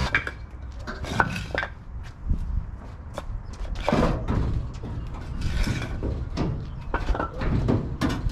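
Irregular light knocks and clatter of tools or metal parts being handled, with a sharper knock about a second in.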